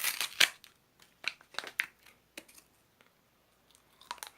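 Paper wrapper of a Gugu Cone ice cream cone crinkling and tearing as it is unwrapped: a dense run of crackling at first, then a few separate sharp crackles and clicks.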